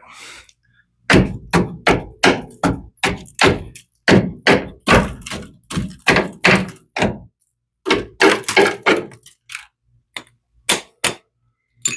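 A run of dull knocks and thuds, about three a second for some six seconds, then a tight cluster of knocks and a few scattered ones near the end.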